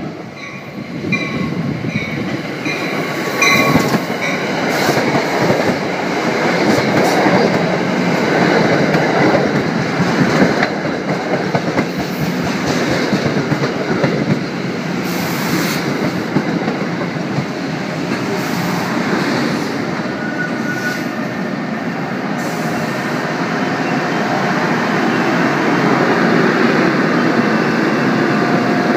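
NJ Transit electric push-pull commuter train rolling past close by: a steady rush of wheels on rail with some clatter. A bell rings about twice a second in the first few seconds.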